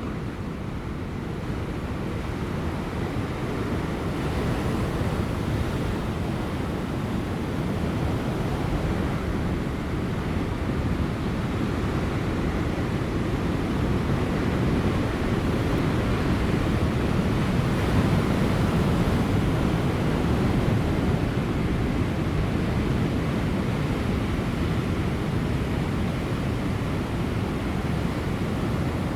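Large ocean waves breaking on rocks, a continuous surf wash with no distinct single crashes, swelling gradually to its loudest about two-thirds of the way through, with light wind.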